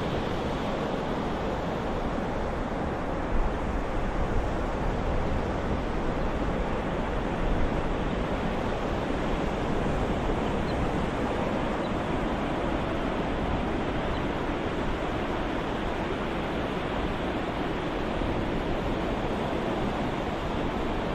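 Steady ocean surf: a continuous wash of waves with no distinct breakers, only slight swells in loudness.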